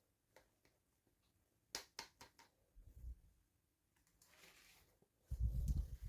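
Hands handling small plastic toy packaging: a quick run of light clicks and taps, a soft rustle, then a louder muffled low bump near the end.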